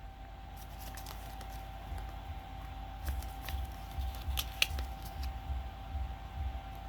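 Light handling sounds: scattered small clicks and soft rustles with low bumps, one sharper click a little past the middle, over a faint steady hum.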